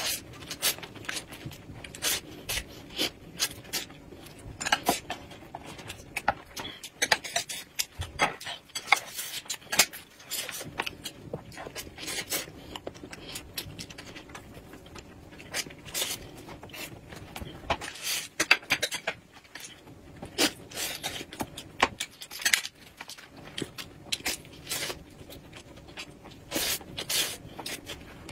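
Close-up eating sounds of someone biting and chewing a rolled thin pancake wrap: wet mouth smacks and chewing clicks, many and irregular.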